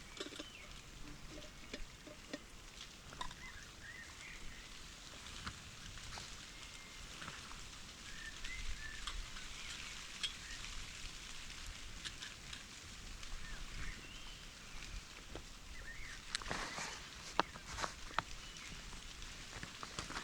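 Rain pattering steadily, with small birds chirping now and then and a few sharp clicks and knocks near the end.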